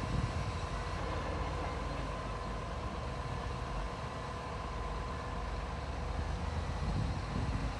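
Heavy earthmoving machine's diesel engine running steadily: a continuous low rumble with a faint steady whine above it.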